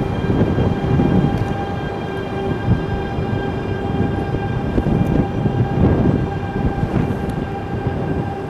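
Shinkansen train of coupled E5- and E3-series sets pulling away over the tracks: a low rumble of wheels on rail that swells and fades irregularly, with a steady whine above it.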